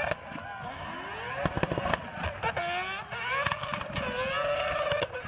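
Mazda RX-7 FD's four-rotor 26B rotary engine revving hard up and down through a drift, with several sharp exhaust backfire cracks between the revs.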